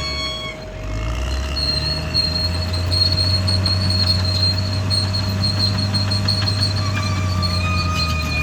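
Caterpillar D6R XL crawler dozer's diesel engine running under load, dipping briefly and picking up again about a second in, with high-pitched squealing from the steel tracks and undercarriage through most of it.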